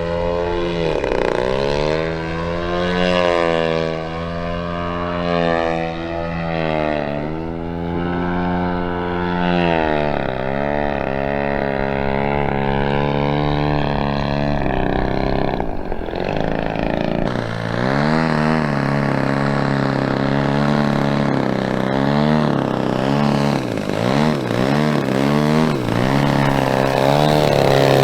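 Propeller drone of a large RC aerobatic plane's DA-120 twin-cylinder two-stroke petrol engine in flight. The pitch keeps sliding down and back up as the throttle changes and the plane manoeuvres and passes, with quicker wavering toward the end.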